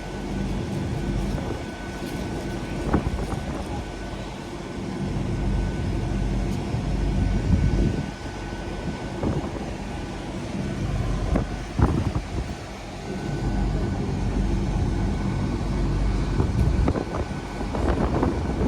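Class 800 bi-mode train standing at the platform with its underfloor diesel engines idling: a steady low engine drone with a thin, high, steady whine over it and a few short knocks.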